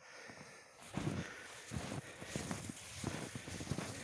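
Footsteps walking at a steady pace, about one and a half steps a second, over a hiss of outdoor noise.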